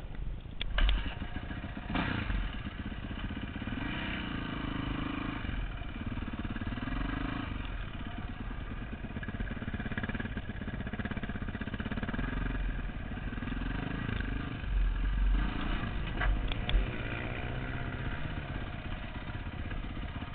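Motorcycle engine running, its pitch rising and falling with the throttle, with a few sharp clanks about a second in, at about two seconds and again near the end.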